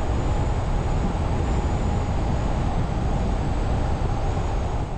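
Van driving down the road, heard from inside the cab: a steady, loud rumble of engine and road noise.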